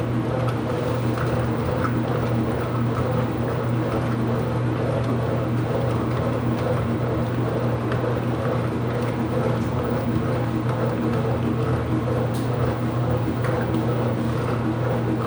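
Ipso washing machine running mid-cycle: a steady low hum with water swishing inside the drum.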